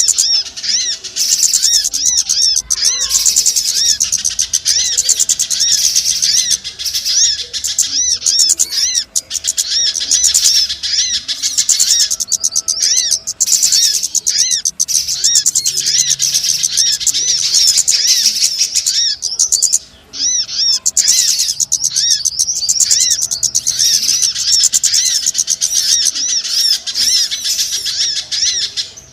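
Dense, continuous high-pitched chirping and twittering of many small birds, rapid arched notes overlapping one another: a bird-lure (pikat) recording used to call small birds in for catching.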